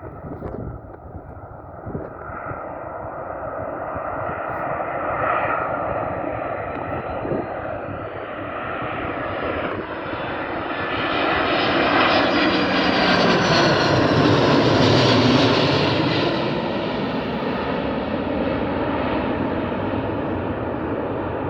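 Airbus A330 twin-engine jetliner flying past: the jet engine noise builds steadily, is loudest about two-thirds of the way in with a sweeping, phasing tone as it goes by, then eases off a little.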